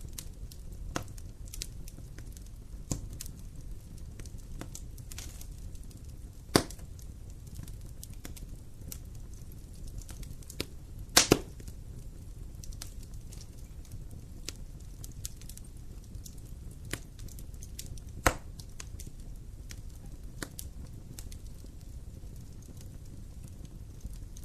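Wood campfire burning: a steady low rumble of flame with scattered crackles and sharp pops. The loudest pops come at about a quarter of the way in, a quick double pop near the middle, and one about three quarters through.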